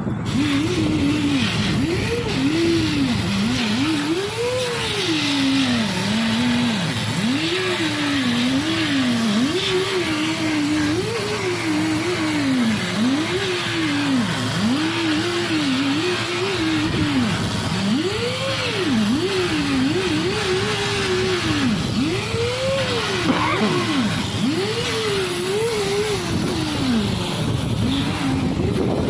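Loud, steady machinery noise in a ship's engine room. Through it, a single pitch keeps rising and falling in smooth arcs every second or two.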